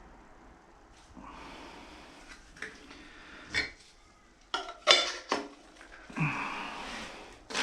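Plastic resin bottles and a measuring cup being handled: a few sharp knocks and clatters between about three and five and a half seconds in, then a stretch of rustling and handling noise.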